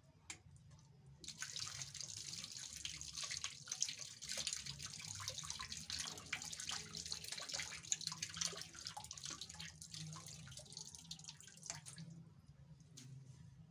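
Water running from the automatic hand-washing machine's outlet and splashing over hands for the rinse at the end of the 20-second scrub timer, starting about a second in and stopping after about ten seconds.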